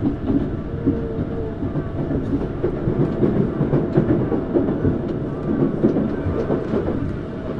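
Tokyu Series 9000 electric train running between stations, heard from inside the passenger car: a steady rumble of wheels on rail with a faint steady tone above it.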